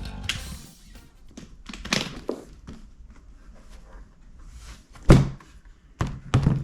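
Several dull thunks and knocks, as of things being handled or set down; the loudest comes about five seconds in and two more follow near the end. A plucked bass note dies away at the very start.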